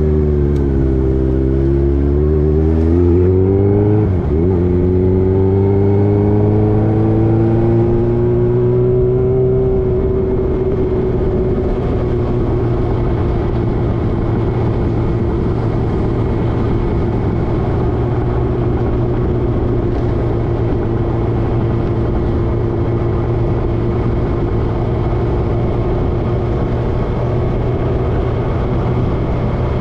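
Motorcycle engine running while riding. It eases off at first, then climbs in pitch for several seconds as the bike accelerates, then holds a steady note at cruising speed.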